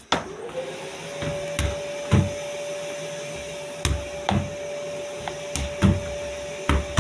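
Vacuum cleaner starting up just after the beginning, its motor whine rising and then holding steady, with several dull thumps through the run.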